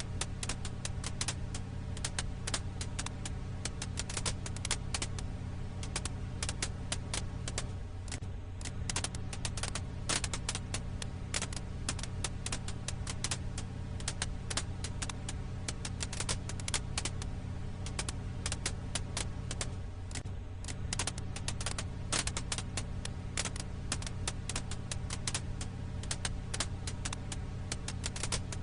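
Firewood crackling: dense, irregular pops and snaps over a steady low hum.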